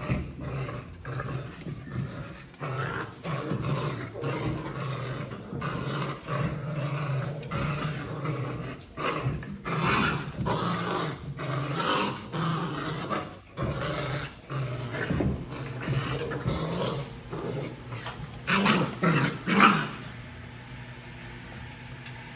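55-day-old American Staffordshire terrier puppies growling, with scuffling and knocks throughout. The loudest bursts come near the end, then the activity stops shortly before the end.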